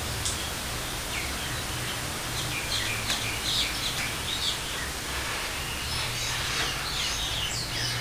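Birds chirping repeatedly in short, quick calls, over a steady hiss and a low hum.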